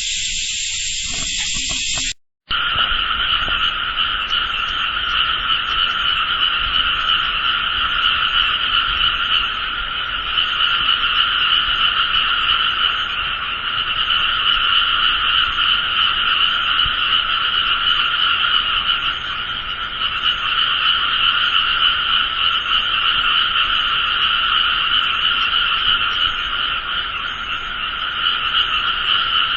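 A dense, unbroken chorus of many frogs calling together, pitched in two steady bands, one middle and one higher. It starts abruptly after a cut about two seconds in, and before it is a different high hiss.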